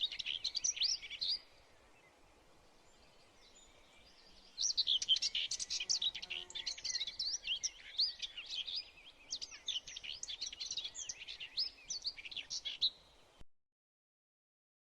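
Birds chirping in quick, dense calls: a short burst at the start, then a long run of many overlapping chirps that cuts off suddenly.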